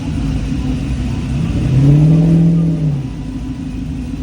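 A car engine running, revved once about a second and a half in: the pitch rises, holds for about a second, then drops back to a steady rumble.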